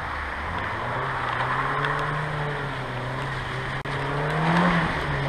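A 1995 Mazda Miata's 1.8-litre four-cylinder engine running under throttle, its pitch wavering and then climbing about four seconds in before easing off, over a steady hiss.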